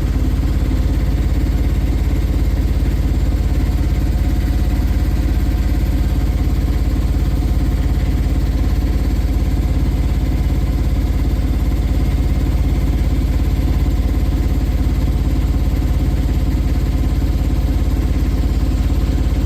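Boat engine running steadily at a constant speed, an even low drone with a fast regular beat.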